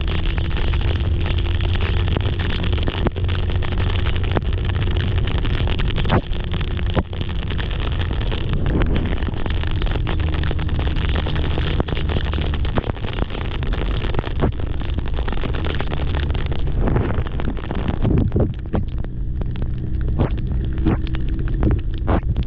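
BMW S1000RR inline-four engine running steadily under heavy wind noise on the camera microphone. The wind noise eases about three quarters of the way through, with a few clicks and knocks near the end.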